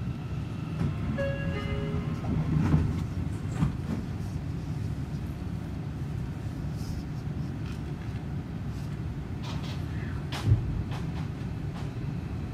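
Seibu 40000-series electric train running, heard from inside the passenger car: a steady low rumble of wheels on rail. A couple of knocks come a few seconds in, and a louder clunk near the end.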